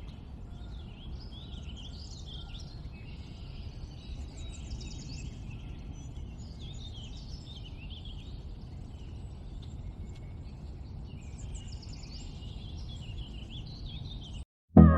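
Several small birds chirping and twittering in quick, overlapping calls over a low steady outdoor rumble. The sound cuts off abruptly near the end.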